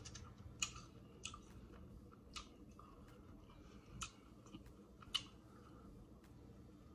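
Close-miked chewing of a crunchy hard taco shell: a handful of sharp, crisp crunches at irregular intervals.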